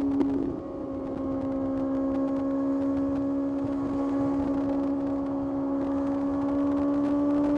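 Kawasaki ZX-6R's inline-four engine running under way. Its note briefly dips about half a second in, then holds steady and rises slowly as the bike gathers speed.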